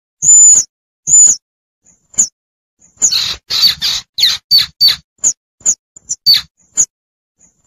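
Young squirrel's distress calls for its mother, used as a hunting lure: sharp, high-pitched squeaks about once a second, breaking into a fast, dense run of chirps about three seconds in before slowing again.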